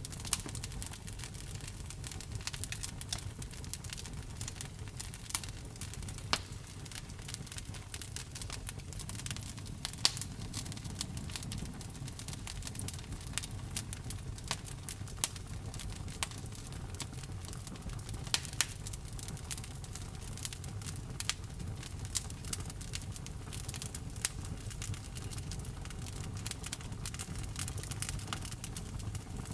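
Wood fire burning steadily, with a continuous crackle of small irregular snaps and a low rumble of the flames, and now and then a louder pop from the burning wood.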